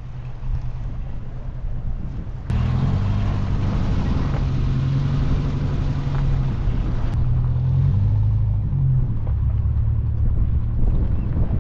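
Wind rumbling on the microphone, then about two and a half seconds in a sudden cut to a Renault 4 van's engine running on the move, its pitch shifting a few times.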